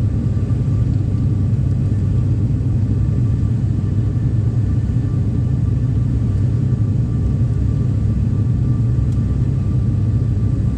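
Steady low drone of an ATR 72-600's Pratt & Whitney PW127 turboprop engines and propellers, heard inside the passenger cabin in flight, with a faint steady whine above it.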